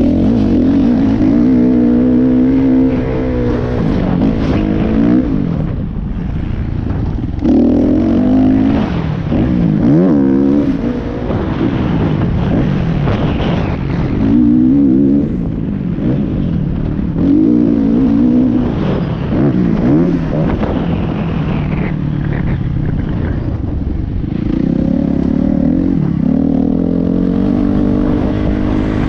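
Motocross bike engine revving hard again and again, its pitch rising and falling as the throttle opens and closes.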